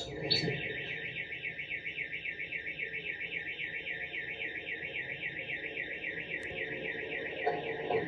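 Electronic alarm siren warbling fast and steadily, about five cycles a second, with a brief louder noise near the end.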